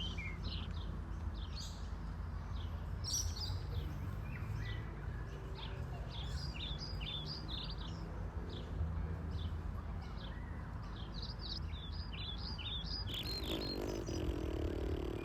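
Small birds chirping repeatedly in quick high calls over a steady low background rumble, with a brief noisier sound near the end.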